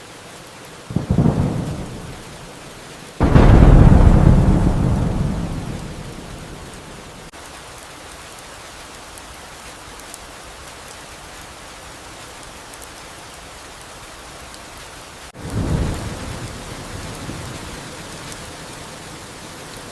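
Steady rain with three thunderclaps: a short one about a second in, a loud crack about three seconds in that rumbles away over several seconds, and another around fifteen seconds in that fades slowly.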